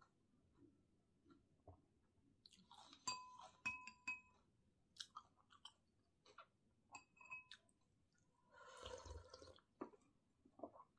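Close-miked chewing and mouth sounds of someone eating panipuri. A metal spoon clinks against a glass bowl several times about three to four seconds in and again around seven seconds, each clink ringing briefly, and there is about a second of louder noise near the end.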